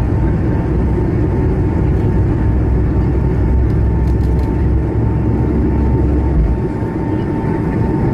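Airbus A220-300's Pratt & Whitney geared turbofan engines at takeoff power: a steady, loud roar with a constant whine running through it. The deepest rumble drops away about six and a half seconds in.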